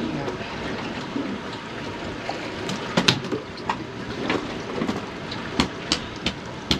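Steady wash of water against a boat's hull, with scattered knocks and clicks on board, the loudest about three seconds in and a few more near the end.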